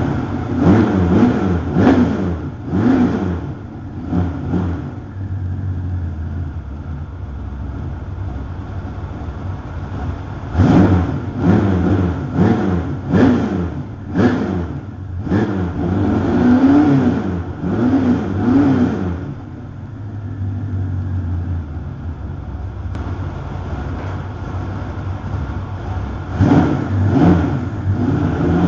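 350 V8 with 180-degree headers and Dr. Gas FreqMod mufflers, revved in clusters of quick throttle blips near the start, through the middle and again near the end, dropping back to a steady idle between them.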